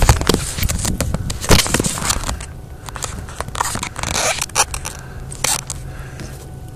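Rubbing, scraping and clicking of a phone being handled and set down, loudest in the first couple of seconds, over the steady low idle of a 1999 Mustang GT's 4.6-litre V8 through a Mac cat-back exhaust, which is heard more plainly once the handling dies down.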